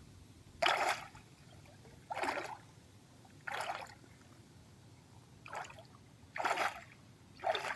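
Water splashing in six short bursts, one every second or two, one of them fainter than the others.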